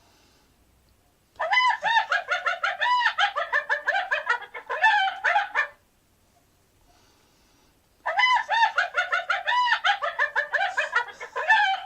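Hyena giggling call ('laugh'): two long bouts of rapid, rising-and-falling yelping notes, several a second, with a pause of about two seconds between them.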